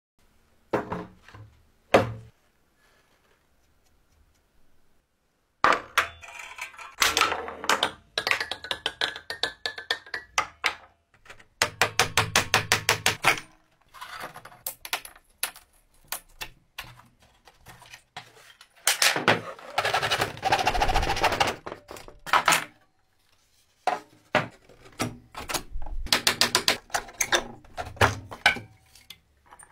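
Workshop work on a wooden pinball game: knocks and thuds on wood and parts being handled, heard in short bursts that start and stop abruptly. Partway through comes a run of rapid, evenly spaced clicks, and later a few seconds of dense, steady tool noise.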